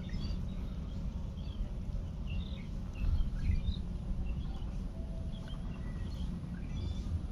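Outdoor ambience of small birds chirping, many short scattered calls, over a steady low rumble.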